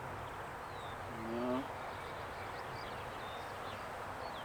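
Small birds chirping repeatedly, short high notes, over a steady low outdoor hum.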